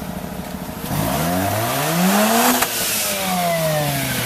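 Mazda RX-8's two-rotor rotary engine on its stock exhaust, idling and then revved: the pitch rises for about a second and a half, cuts off sharply as the throttle closes, falls back slowly, and climbs again with a second blip near the end.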